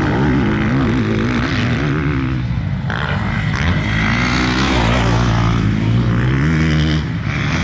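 Motocross dirt bike engines revving as the bikes race, their pitch rising and falling with the throttle.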